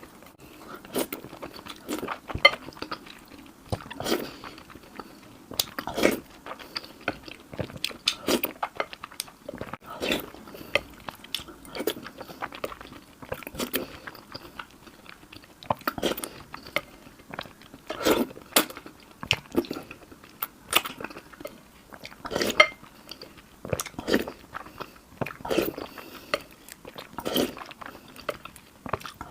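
Close-miked chewing and biting of food, with irregular crunchy bites and mouth sounds repeating every second or so.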